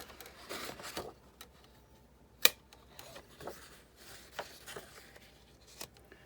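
Hands handling plastic die-cutting plates, a metal cutting die and cardstock: scattered light clicks and rustles, with one sharp click about two and a half seconds in.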